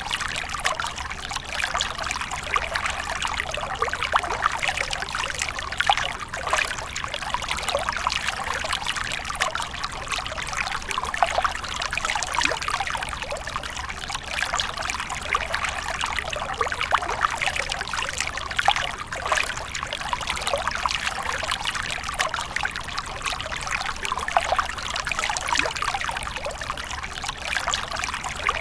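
Water splashing and trickling steadily, a continuous run of many small splashes and drips.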